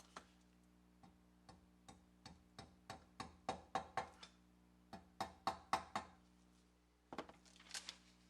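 A run of sharp knocks on a hard object, coming faster and louder to about four a second, breaking off briefly, then starting again, with a few more knocks near the end.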